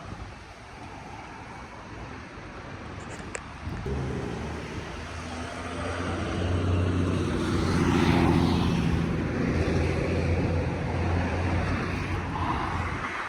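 A motor vehicle passing close by on a city street: its engine hum comes in about four seconds in, grows to its loudest about eight seconds in along with tyre and road noise, then eases off.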